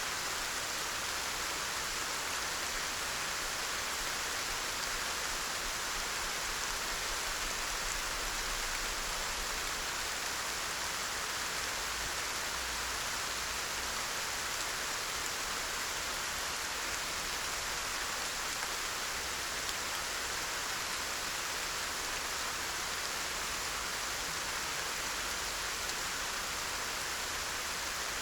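Steady rain falling, heard as an even hiss with no single drops or thunder standing out.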